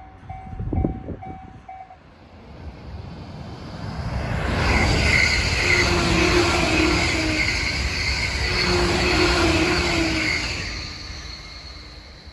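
Level crossing alarm ringing in a steady repeating pattern, with one brief thump. Then an E531 series electric train passes at about 127 km/h: a rush of wheels on rail and air that builds, holds with a steady whine during the pass, and fades away.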